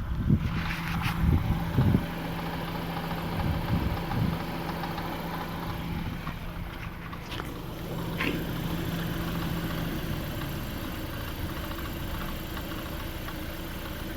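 Lada Vesta engine idling with a rapid, rattling knock from the manual gearbox's input shaft. The owner has rebuilt the gearbox, found the bearings sound, and cannot tell the cause.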